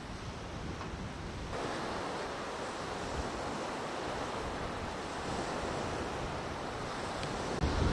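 Wind blowing and waves washing on a lakeshore, a steady rushing noise that turns abruptly fuller about a second and a half in; near the end, wind starts buffeting the microphone with a low rumble.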